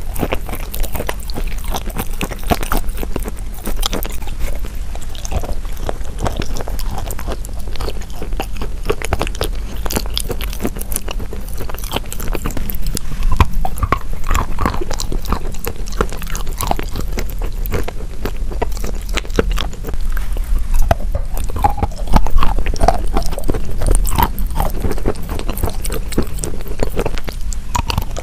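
Close-miked chewing and crunching of wet chalk coated in a creamy paste: a dense run of small crackling clicks with wet mouth sounds, over a steady low rumble.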